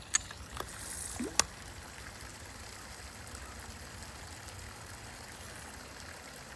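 Creek water running in a steady gentle rush, with two sharp clicks in the first second and a half.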